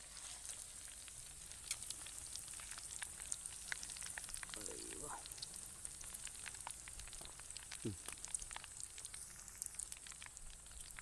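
Chicken pieces deep-frying in hot oil, sizzling steadily with many small crackles, while a long ladle stirs and lifts them in the pan.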